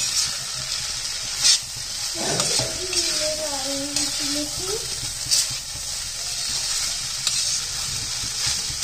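Rice and vegetables sizzling in hot oil in a pan as they are stirred and turned, a steady frying hiss with a few sharp scrapes and knocks of the spoon against the pan, the loudest about a second and a half in and again past five seconds.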